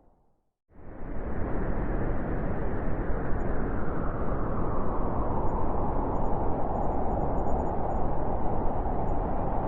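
Blizzard wind blowing: a steady, dense rush with most of its weight low. It comes in out of a moment of silence at the very start and swells to full level within about a second.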